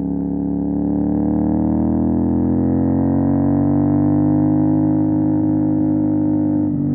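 CFMOTO 450 SR parallel-twin engine through an MSH G6 full-system exhaust, running at steady throttle. The engine note climbs slowly over the first few seconds, then eases off slightly, with a brief dip near the end.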